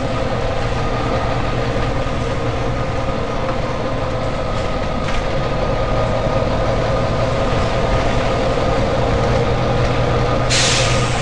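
Volvo B9TL double-decker bus running, with a steady engine and drivetrain hum and a whine over it. Two faint short air hisses come about halfway through, and a loud burst of compressed-air hiss from the bus's air system comes near the end.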